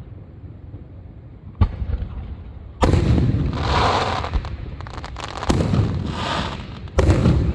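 Fireworks going off: a sharp bang about a second and a half in, then three loud booms, each followed by a rolling rumble and crackle.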